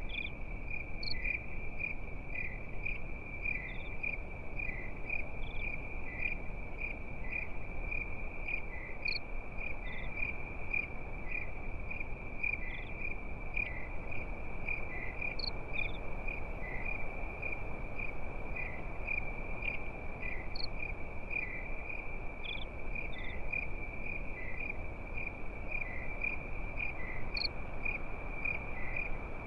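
Crickets chirping in a steady, fast-pulsing trill, with a few brief higher chirps every few seconds over a steady low rushing noise.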